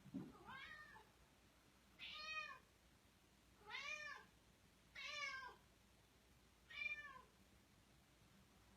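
A cat meowing five times, about every second and a half. Each meow rises and then falls in pitch.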